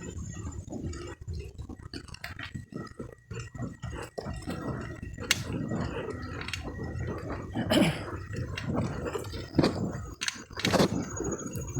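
Footsteps crunching through dry leaves and undergrowth: uneven rustling and crackling, with a couple of sharper snaps near the end.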